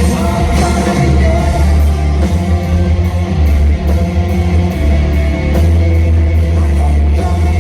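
Live rock band playing loud, with singing over distorted guitar, heavy bass and drums keeping a steady beat on the cymbals.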